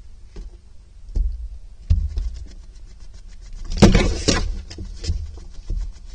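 Thumps and scrabbling of a barn owlet moving about on the floor of a nest box, close to the microphone. There are dull knocks about a second and two seconds in, and a loud rustling burst about four seconds in.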